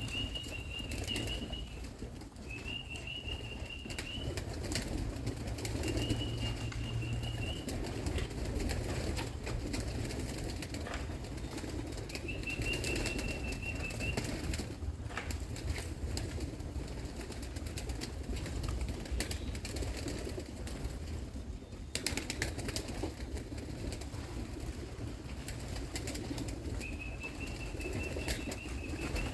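Wings of a flock of young racing pigeons flapping as the birds fly about and land at the loft, with many scattered sharp clicks.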